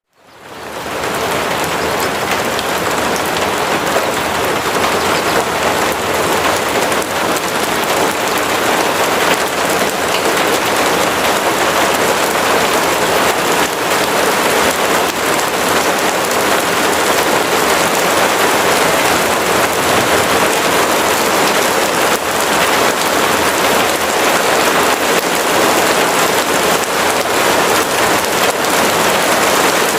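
Steady, heavy rain: an even hiss of falling rain that fades in quickly from silence at the start, then holds steady.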